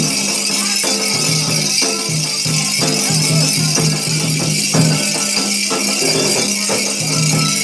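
Afro-Brazilian Candomblé ritual music with rattles shaking steadily over repeated drum strokes, and what look like voices singing along.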